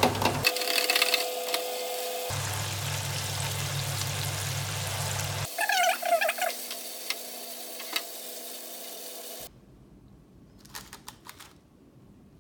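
Hot oil sizzling as breaded chicken tenders deep-fry, across several cut-together clips. The sizzle drops to a faint hiss with a few clicks in the last few seconds.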